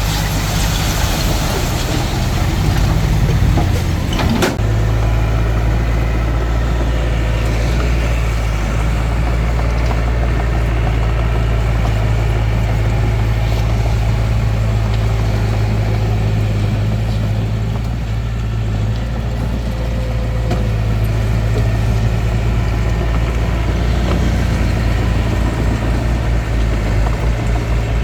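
Hitachi DX45M bulldozer's diesel engine running steadily while working, with a single sharp knock about four seconds in.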